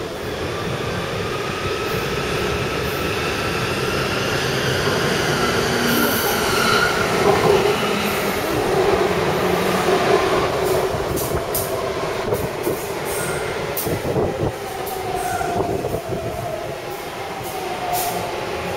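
Taipei Metro C301/C371-type train running on the line, its motor whine rising in pitch over the first several seconds as it gathers speed, over a steady rumble of wheels on rail. Later a lower whine falls in pitch near the end, with a run of short clicks.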